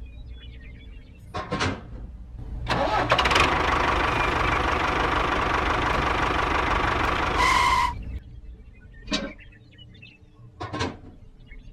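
A motor starts about three seconds in, runs loudly and steadily for about five seconds, then cuts off. A few short separate sounds come before and after it.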